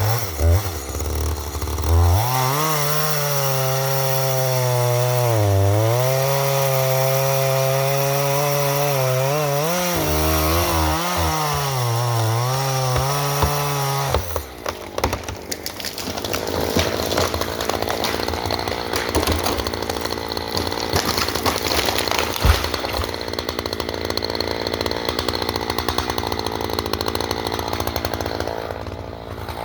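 Two-stroke chainsaw cutting into a hemlock at high revs. Its pitch sags and recovers as the chain loads in the cut. About halfway through, the steady tone breaks off suddenly into a rougher, noisier rasp.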